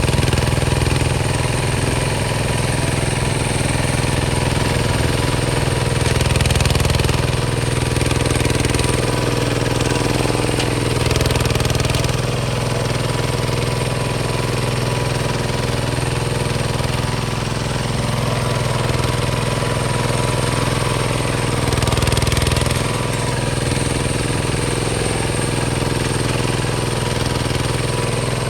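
Hinota HG Gold 155 DI hand tractor's single-cylinder diesel engine running steadily with a hard, rapid thumping, its note swelling briefly a few times.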